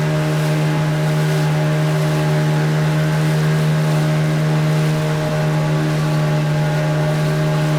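Motorboat engine running at a steady speed, a constant even drone with no change in pitch.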